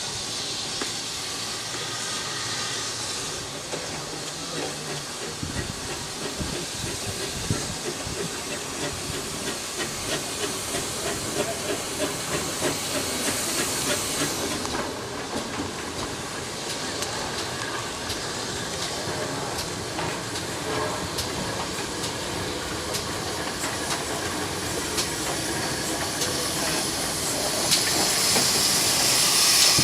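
A steam locomotive and its train in motion: steady steam hiss with train running noise, growing louder near the end.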